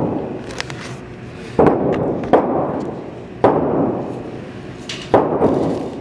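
Gunshots at a shooting range: four irregularly spaced shots, each ringing out and dying away over about a second.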